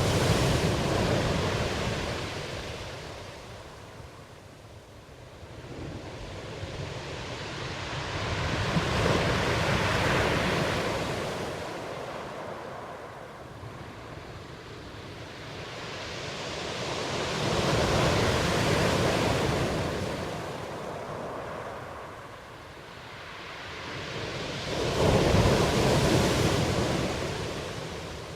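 Ocean waves breaking and washing in, surging and receding about every eight seconds, four surges in all.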